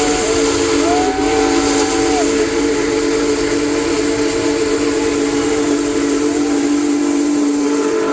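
Big Boy No. 4014 steam locomotive's whistle blowing one long, loud chord of several notes held together, over a steady hiss of steam and the running train.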